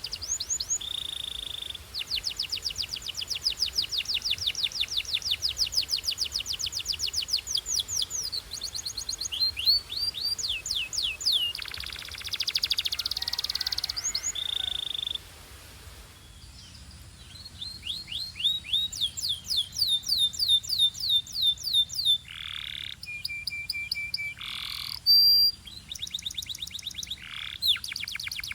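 Belgian canary singing: long runs of fast, high repeated trill notes broken by short held whistles, with a brief quieter pause about halfway through before the song picks up again with gliding notes and more trills.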